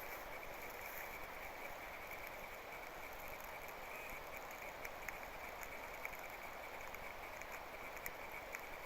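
Small campfire just catching: bark and thin brushwood twigs burning with a faint steady hiss and scattered small crackles.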